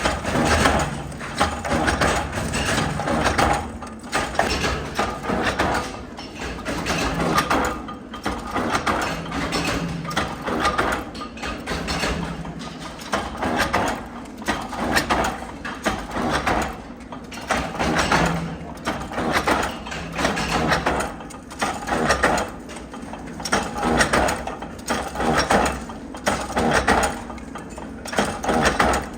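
Metalworking machinery in a hex nut factory running, with a jumble of clanks and clicks that swell and fade every second or two.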